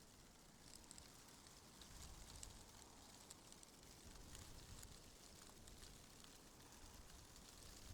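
Faint wind stirring tree leaves: a soft, steady rustle with scattered small ticks and crackles and a low rumble underneath.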